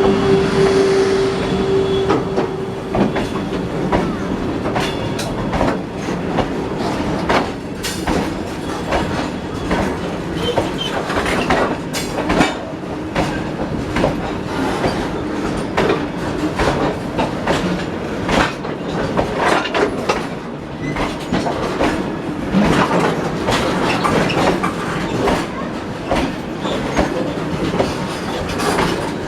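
Freight train of BOXN open wagons rolling past: steady wheel rumble with continual clatter of wheels over rail joints. A steady tone dies away in the first couple of seconds.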